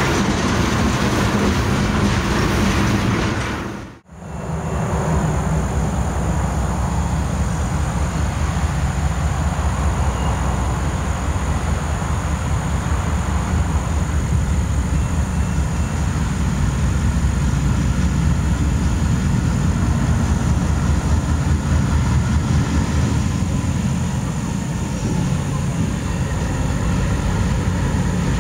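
Freight cars of a CSX train rolling past on the rails. The sound cuts out for a moment about four seconds in, then gives way to the steady low rumble of diesel freight locomotives as another train pulls into the yard.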